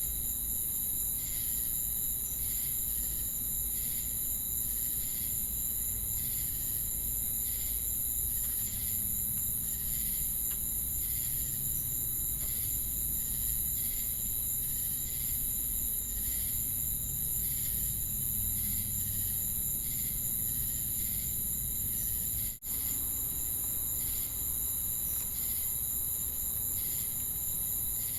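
Night chorus of crickets and cicadas: a steady, high-pitched shrill, with a chirp pulsing about once a second. The sound breaks off for an instant about two-thirds of the way in.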